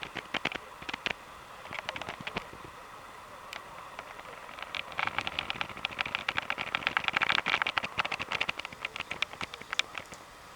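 Wood fire crackling and popping: scattered pops at first, then about five seconds of dense, rapid crackling in the middle before it thins out again.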